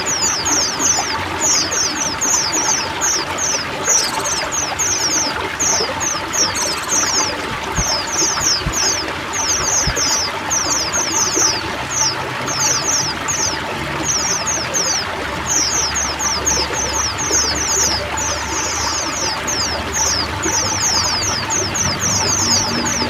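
Running water pouring and trickling steadily under a flock of white-eyes (pleci) chattering, with quick, high, downward chirps in dense runs broken by brief pauses.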